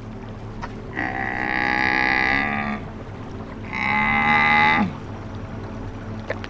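Two long, drawn-out animal calls, the first about two seconds long and the second just over a second, dropping in pitch as it ends. Both sound over a steady background of soft music.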